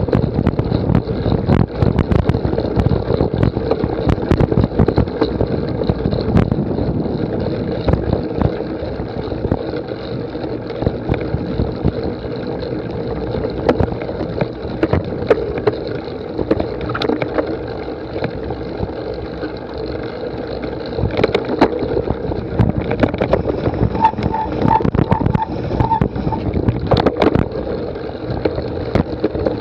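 Steady rattling and wind buffeting from a cyclocross bike ridden hard over rough ground, with dense knocks and clatter throughout. A short run of about six quick high beeps comes about two-thirds of the way through.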